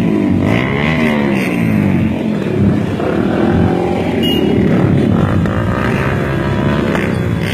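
Several sport motorcycle engines revving together, their pitches rising and falling and overlapping.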